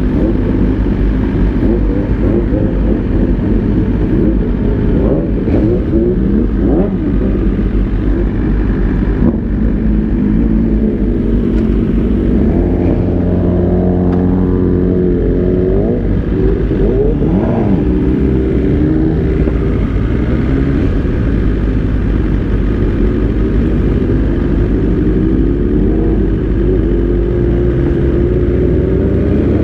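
Several sport-bike engines running together, revved up and down again and again so that their pitches rise and fall over one another.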